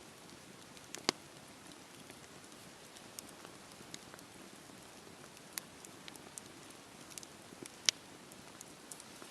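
Campfire burning: a soft steady hiss with irregular sharp crackles and pops of burning wood, two louder pops about a second in and near the end.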